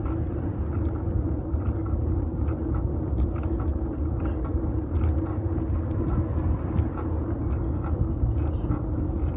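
Steady rumble of a fixed-gear bike rolling along the road, picked up by a phone in a metal holder on the bike. Small clicks and ticks are scattered through it.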